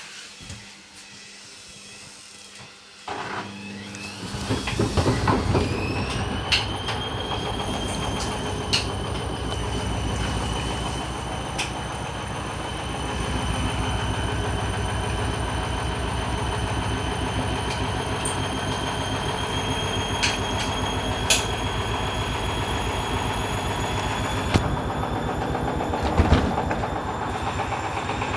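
Hoover Dynamic washing machine ramping up into its spin: about three seconds in, the motor whine rises in pitch and then holds steady over a rapid, even low pulsing from the drum, with a few sharp knocks. The load is unbalanced in the drum.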